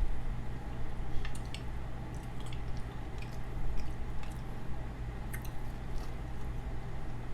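A person chewing food close to the microphone, with soft wet mouth sounds and small clicks, over a low steady hum.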